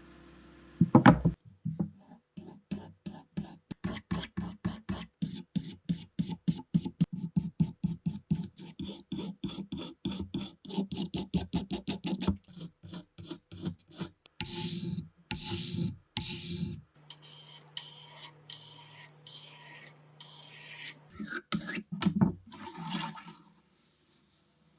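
Rapid back-and-forth rasping strokes of a hand tool working a part of a Mauser K98 rifle, about four strokes a second, after a sharp knock about a second in. Past the middle the strokes turn into a few longer ones, then slower, lighter ones.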